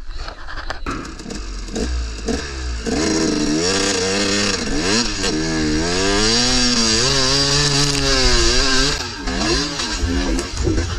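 KTM 300 two-stroke dirt bike engine revving hard on a climb, its pitch rising and falling again and again as the throttle is worked.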